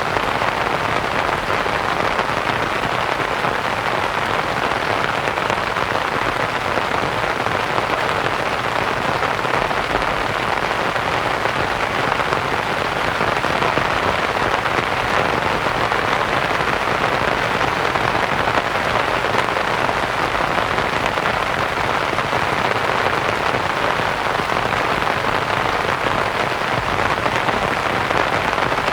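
Steady rain pattering on a canvas tent, blended with soft white noise into one even hiss.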